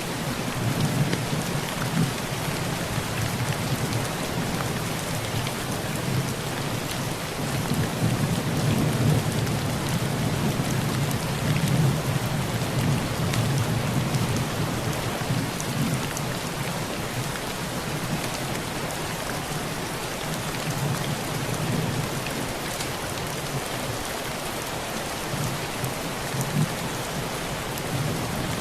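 Heavy rain falling steadily on a tin roof, with low rolling thunder underneath that swells in the middle and eases toward the end.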